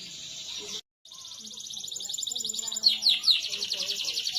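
Domestic canary singing a fast, rolling trill, with a pair of downward-swooping notes about three seconds in. The sound cuts out completely for a moment about a second in.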